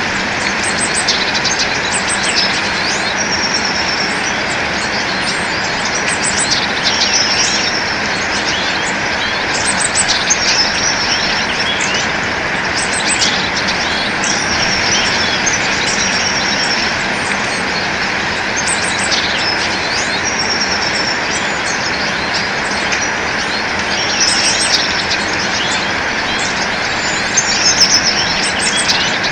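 Many birds chirping and calling, with short high chirps and repeated quick trills coming every second or two, over a steady, even background noise.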